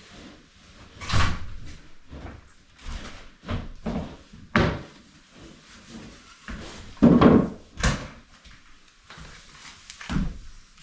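Several sharp knocks and bangs at irregular intervals, typical of hands-on home repair work, the loudest pair coming about seven and eight seconds in.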